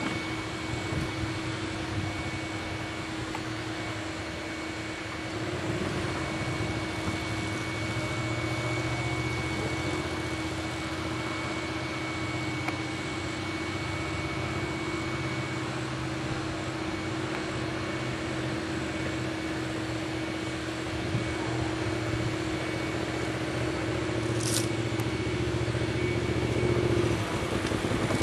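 Motorcycle engine running at a distance over a steady mechanical hum, growing louder over the last few seconds as the bike comes back.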